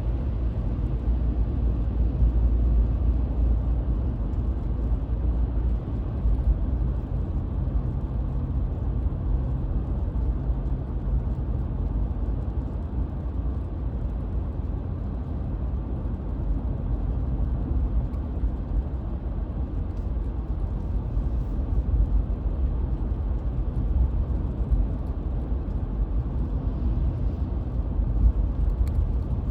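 A car on the move: a steady low engine and road rumble, heard from inside the cabin.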